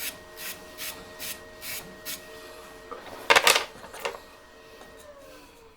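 Wood being worked by hand at the lathe: regular rasping strokes on wood, about two or three a second, stop about two seconds in. A louder scrape comes at about three seconds, and a steady motor hum winds down near the end.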